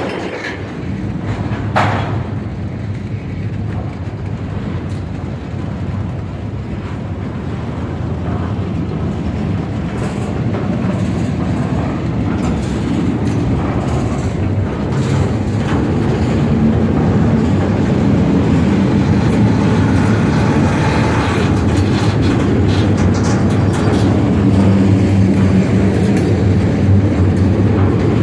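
Double-stack intermodal freight train's well cars rolling past: a steady rumble of steel wheels on the rails that grows louder, with a few sharp clicks.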